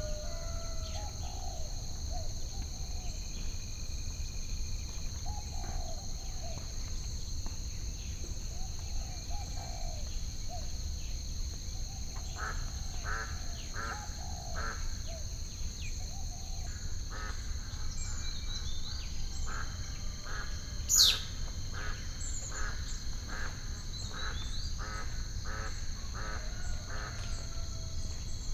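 Added ambient bird sounds over a steady low rumble and a constant high hum. There are scattered calls at first, then a run of short calls repeated about twice a second in the second half. A single sharp falling whistle about two-thirds of the way through is the loudest sound.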